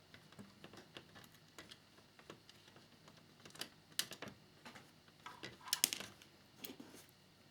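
Irregular light clicks and taps of small scale-model motorcycle parts being handled and fitted together, with the sharpest clicks about four seconds in and a cluster near six seconds.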